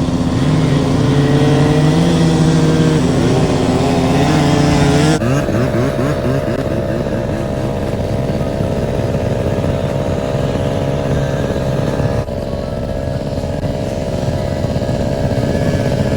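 Quad bike engines running and revving as they are ridden, the pitch rising and falling. The sound changes abruptly twice, about five and about twelve seconds in.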